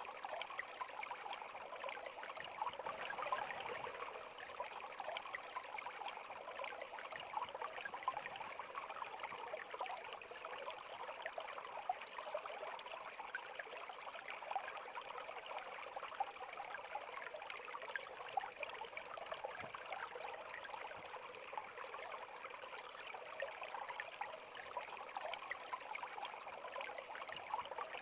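River water flowing steadily, a continuous rush of small splashes and trickles.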